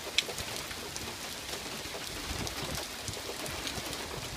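Steady rain falling, with many small drop hits and one sharp tap shortly after the start.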